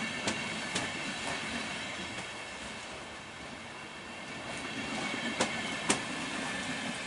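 Deutsche Bahn Intercity passenger coaches rolling past with a steady rumble and a faint high whine. The wheels click over a rail joint in two pairs, one pair near the start and one about five seconds later, each pair a bogie's two axles.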